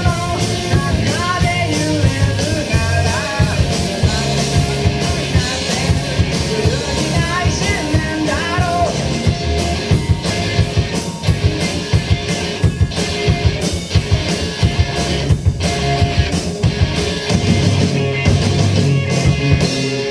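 Live rock band playing: drums, electric guitars and bass, with a singer for about the first half, then an instrumental stretch.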